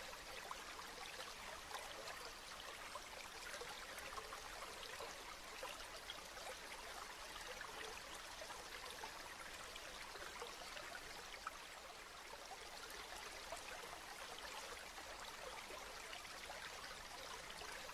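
Steady rain, a dense patter of many small drops with no let-up.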